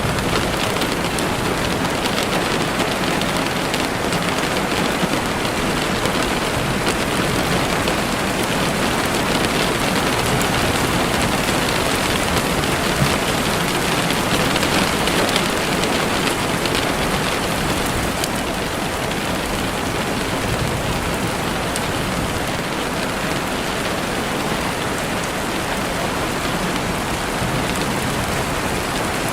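Steady rain falling through trees: an even, unbroken hiss of many drops.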